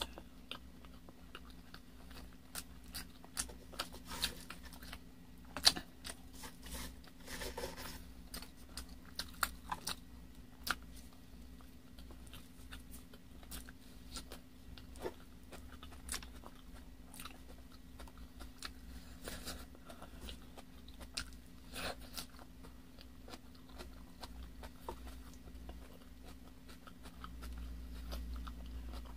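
Close-miked eating sounds: biting and chewing braised chicken leg meat, with many sharp wet mouth clicks, busiest in the first ten seconds. A steady low hum runs underneath.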